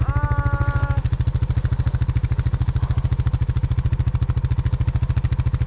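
Snowmobile engine idling steadily, a fast, even low pulsing. A short hummed voice sound lasts about a second at the start.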